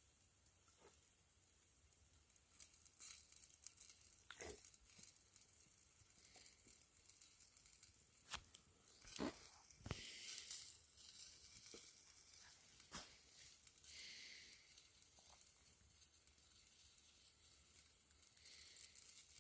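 Faint hiss of meat sizzling on a flat rock set over a campfire, with scattered crackles and sharp pops from the fire, the loudest about nine to ten seconds in.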